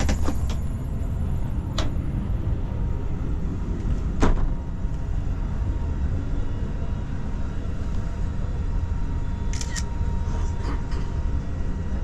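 Steady low rumble, like machinery or ventilation noise, under a faint steady hum. A few sharp clicks sound over it, the loudest about four seconds in, with a short cluster of lighter clicks near the end.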